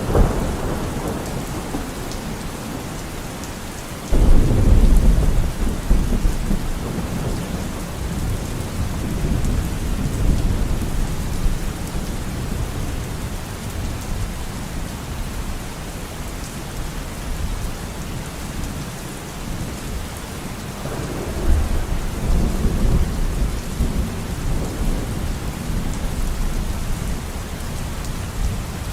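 Steady rainfall in a forest with rolling thunder: one low rumble breaks in suddenly about four seconds in and fades over several seconds, and a second rumble comes about twenty seconds later.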